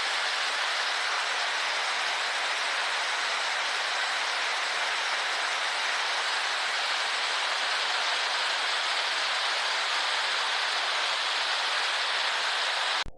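Thawing, partly frozen waterfall: a steady, even rush of falling water that stops abruptly at the very end.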